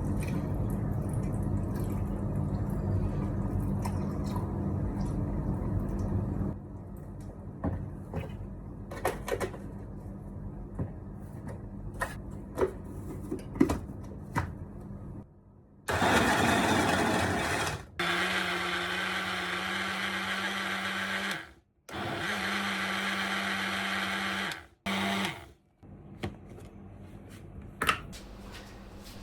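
Electric blender running, first for about six seconds, then after a stretch of light clicks and knocks in several more bursts of a few seconds each that cut off abruptly.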